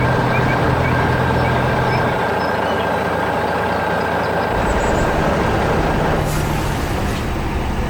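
Heavy truck engine running steadily, with a thin whine over it that stops about six seconds in, followed by a short hiss.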